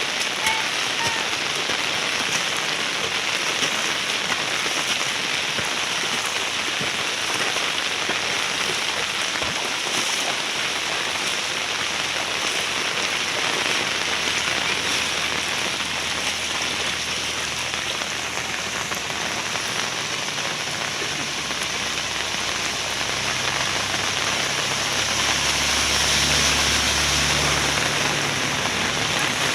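Steady rain falling, a dense even hiss throughout. A low hum joins in about halfway through and is loudest near the end.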